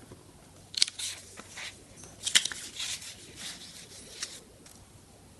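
Paper rustling and crinkling with a few light taps as a paper bird cut-out is handled and pressed into a paper nest. The sound comes in short separate strokes, the sharpest about two seconds in.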